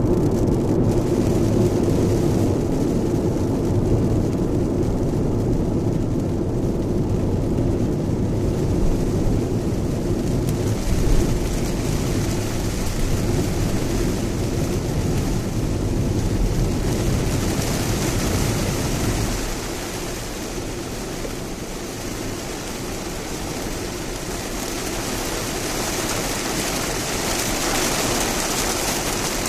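Lexus RX driving through heavy typhoon rain on an expressway, heard from inside the car: steady tyre and road rumble under the hiss of rain and spray on the car. About twenty seconds in, the low rumble drops and the rain hiss grows louder.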